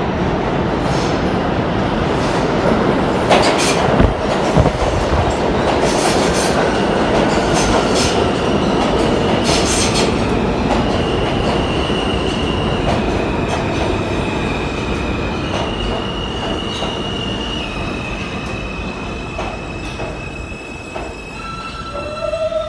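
An R160 subway train pulls into the station. Its wheels rumble and click over the rail joints, and then a high steady squeal steps between pitches as the train slows. The overall sound falls away toward a stop.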